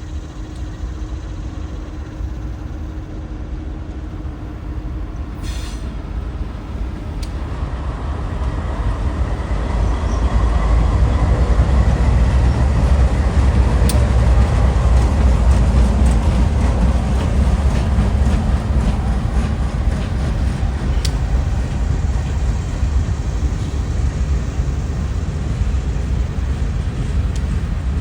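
Indiana & Ohio Railway freight train passing: a low rumble that builds over the first ten seconds or so, is loudest for several seconds around the middle, then carries on as a steady, slightly softer rumble.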